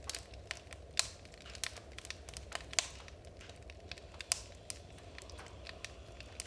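Oak firewood crackling as it burns: irregular sharp pops and clicks, a few louder snaps among them, over a faint low hum.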